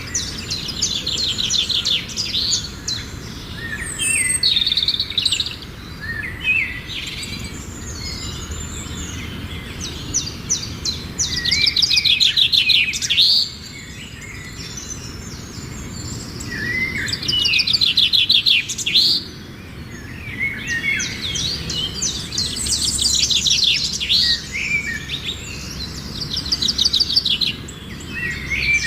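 Birds singing and chirping: bursts of rapid, high trills a second or two long, one after another, over a steady low background noise.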